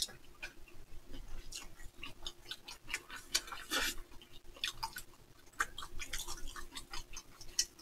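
Two people chewing mouthfuls of mini hamburgers made on soft dinner rolls with ham, tomato and lettuce. It is close and quiet, with irregular small mouth clicks.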